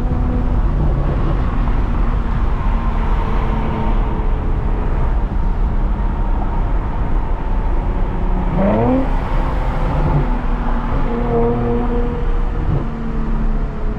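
2022 Lexus IS350's 3.5-litre V6 running through a muffler-deleted exhaust with a catless Tsudo mid-pipe: a steady drone while cruising, with a quick rise in engine pitch a little past halfway.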